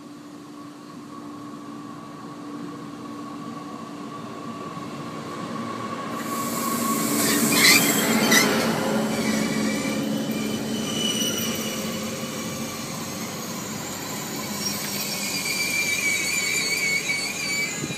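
SNCF AGC regional train running into a station along the platform. It grows louder as it approaches and passes close about seven to eight seconds in, then its wheels and brakes squeal in wavering high tones as it slows.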